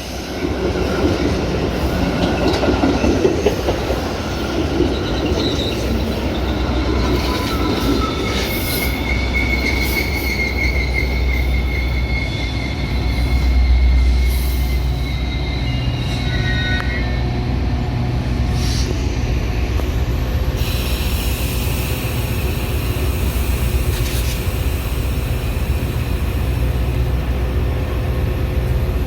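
Metra commuter train running on the rails over a steady low rumble, its wheels squealing in thin high whines that come and go, loudest in the middle.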